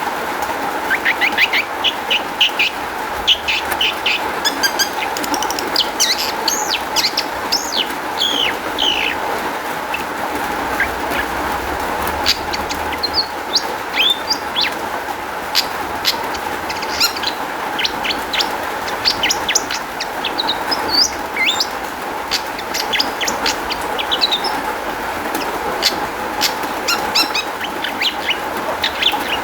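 Long-tailed shrike (cendet) singing a rapid, varied song of short, sharp chirps, whistles and trills packed with notes mimicked from other birds, over a steady background hiss.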